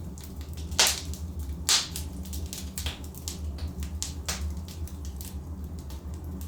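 Wood fire crackling: burning logs giving off irregular sharp pops and snaps over a low steady rumble of flame, with two louder pops about a second and a second and a half apart near the start.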